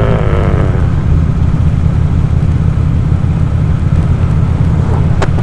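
2014 Harley-Davidson Ultra Classic Limited's V-twin engine running steadily while cruising, a low rumble. There is a single sharp click near the end.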